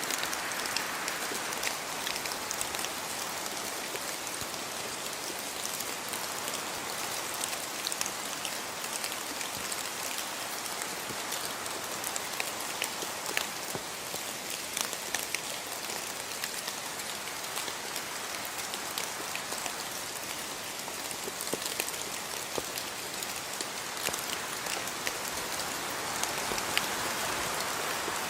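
Steady rainfall, with many small drops pattering on surfaces as a constant hiss.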